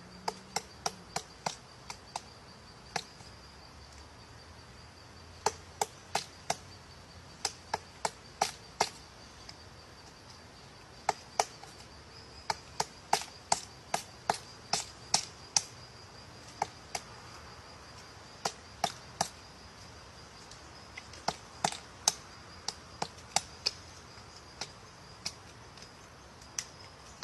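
Woodpecker pecking at a tree trunk to flake off bark: sharp, dry single taps in irregular runs of a few a second, broken by pauses of a second or two. A faint steady high tone runs underneath.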